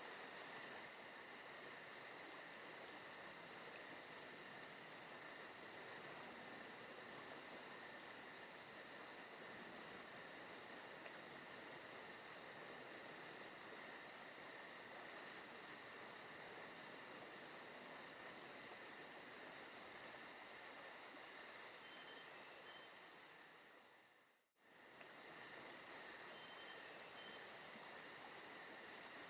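Forest ambience of crickets and other insects chirping in a steady, continuous chorus with a fast high trill. About 24 seconds in, it briefly fades out and comes back.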